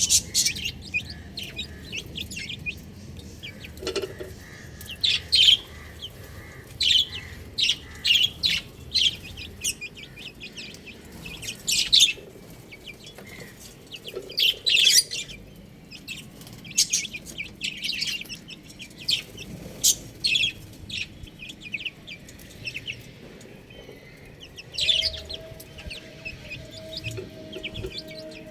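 Baby chicks peeping: many short, high-pitched chirps in quick clusters, with brief lulls between.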